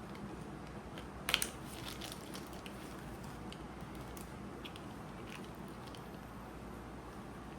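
Scattered small clicks and crunches, with a sharper cluster of clicks about a second in, over a steady low background hum.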